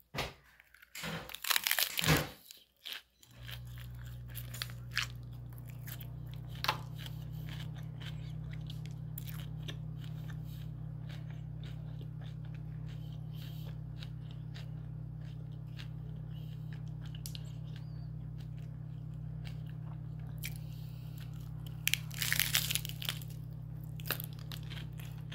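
Crisp romaine lettuce leaf wrapped around ground meat being bitten into and chewed, with loud crunches in the first few seconds and again near the end, and smaller chewing clicks between. A steady low hum starts about three seconds in.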